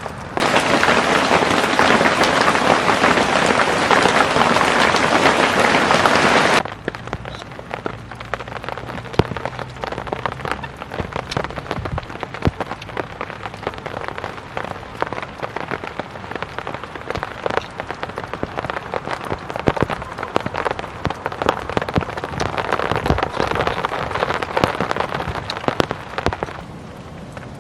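Rain on a tent: a loud, dense downpour for about the first six seconds, then it cuts abruptly to a lighter patter with separate drops striking the fabric, building up again near the end.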